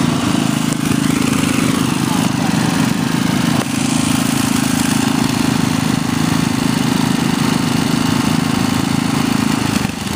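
Ariens lawn tractor's 8 hp Tecumseh single-cylinder engine running steadily at speed, with a brief dip about four seconds in and another just before the end.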